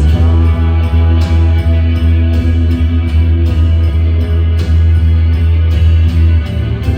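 Live rock band playing loudly: a heavy, sustained bass line under regular drum and cymbal hits.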